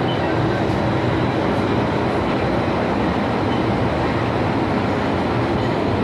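MTR M-Train on the Kwun Tong Line running, heard as a steady, even running noise of the train in motion.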